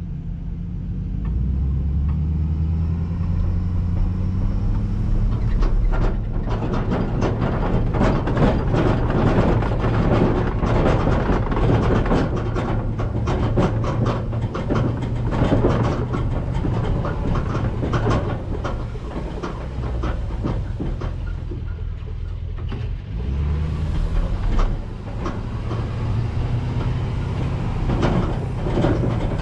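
CAT 259D3 compact track loader's diesel engine running and revving up, with dense metallic clanking and rattling as the machine is unloaded.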